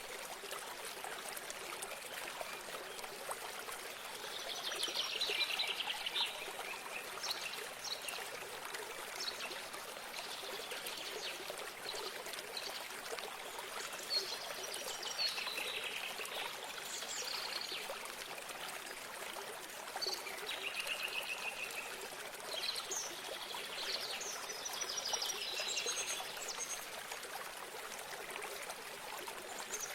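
Running water trickling steadily, with songbirds singing short phrases over it now and then, the loudest about five seconds in and again near the end.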